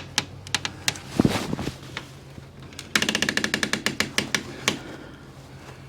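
A screw being driven into a storm door hinge with a tool: a few sharp clicks and a knock about a second in, then a burst of rapid, even clicking lasting under two seconds from about three seconds in. The screw is not seating fully.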